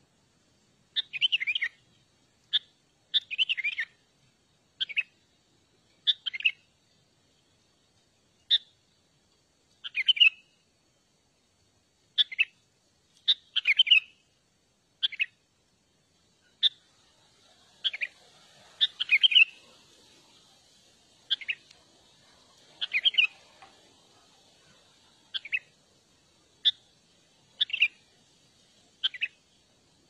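Songbird giving short, sharp chirping calls, about twenty of them, one every second or two, some doubled. A faint steady hiss sits underneath in the second half.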